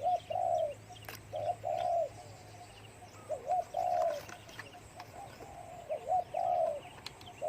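Spotted dove cooing: a short coo followed by a longer rolling coo, repeated about four times roughly every two seconds. Small birds chirp faintly in the background.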